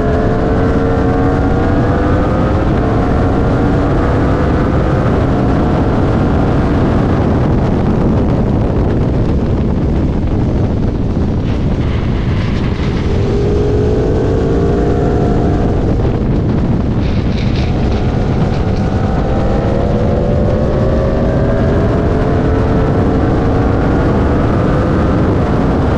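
Aprilia Tuono V4 RR's V4 engine at speed on track, its note rising through the revs in several pulls, with wind rushing over the microphone. For a few seconds in the middle the engine note falls back under the wind noise before it rises again.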